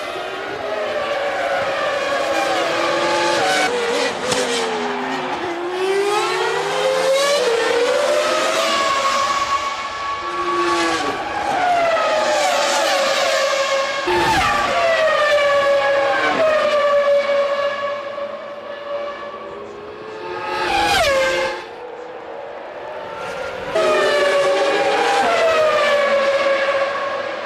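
Formula One cars' 3.0-litre V10 engines at high revs as several cars pass one after another, each pass falling in pitch as it goes by. There is a quieter stretch about two-thirds of the way through, then another car passes near the end.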